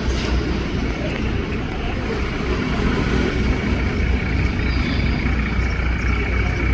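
Steady low engine rumble, with a faint high whine joining it about halfway through.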